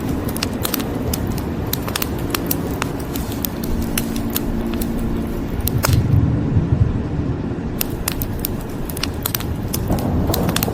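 Wood fire crackling, with frequent sharp irregular pops over a steady hiss of rain. A low rumble of thunder swells about six seconds in.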